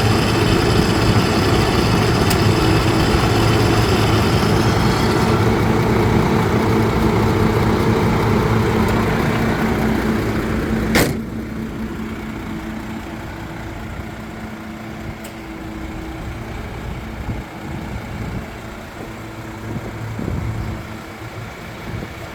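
Six-cylinder diesel engine of a MAN TGA 35.440 tipper truck idling steadily. It is loud for about the first half, then a sharp click about halfway through and the engine sounds quieter and further off.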